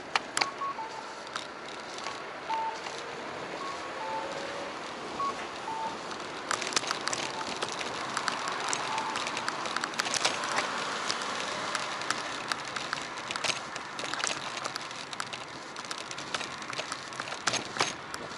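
A bicycle ride picked up by a handlebar or body-mounted action camera: steady road and wind noise with frequent sharp clicks and rattles from bumps. Short high chirps come a few times in the first several seconds.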